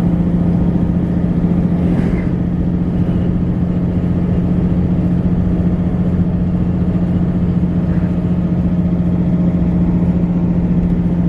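Steady engine and road noise of a car driving along at an even speed, with a constant low drone.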